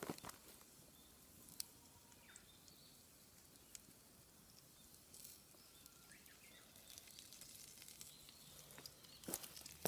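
Near silence: faint outdoor ambience with a few scattered small clicks and some faint high chirps.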